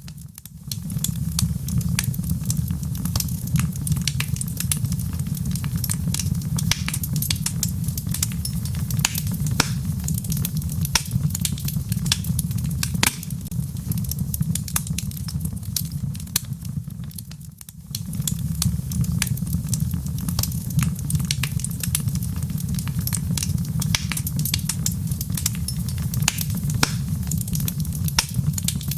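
Wood logs burning in a fireplace: a steady low roar of the flames with dense, irregular crackles and pops from the wood. The low roar briefly fades and returns twice, near the start and about two-thirds through.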